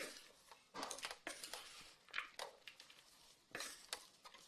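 Grated cabbage and carrot being tossed and mixed in a bowl: a few irregular rustling, scraping strokes, about four in all.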